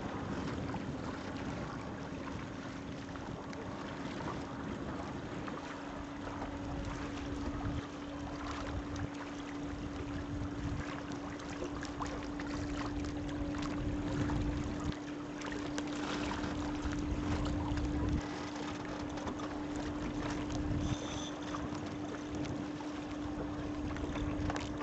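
Wind buffeting the microphone over water noise on a sailboat under way, with a steady hum underneath.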